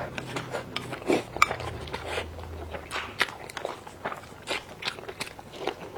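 Close-miked eating: a person biting and chewing food, with frequent short, irregular crunches and wet mouth clicks.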